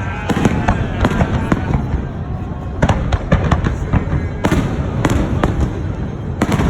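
Aerial fireworks going off in quick clusters of sharp bangs and crackles, several volleys a second or so apart, over a continuous low rumble of the show.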